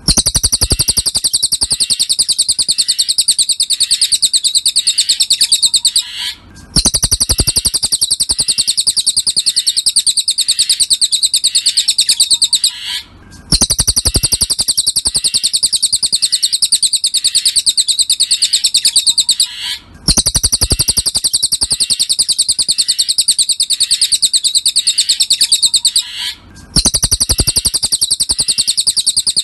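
Cililin songbird singing a rapid, high-pitched trill in long phrases of about six seconds each, broken by short pauses and repeating almost identically, as played from a masteran song-tutor recording.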